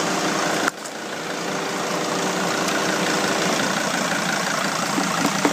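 Sprinter van engine idling steadily, with a faint hum that fades a little after halfway through. A couple of light clicks come near the end.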